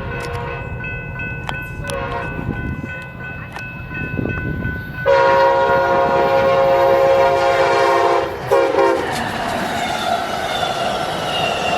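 Diesel locomotive air horn sounding a sequence of blasts: a long one at the start, a louder long blast about five seconds in and a short one near nine seconds. The train then rolls past with steady wheel and rail noise.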